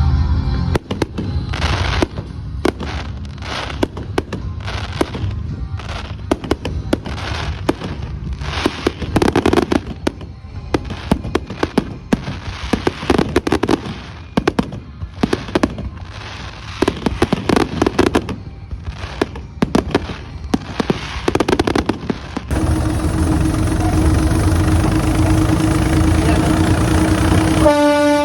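Fireworks going off: a dense, irregular run of bangs and crackles. Near the end they give way to a steady rumbling hum with a low drone.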